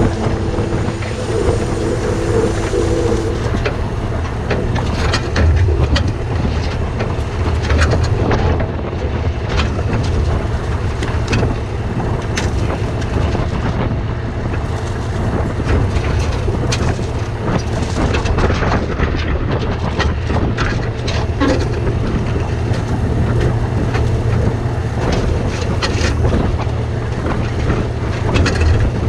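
Heavy truck's diesel engine running steadily, with frequent rattles and clunks over it. A humming tone sounds over the engine at first and stops about three seconds in.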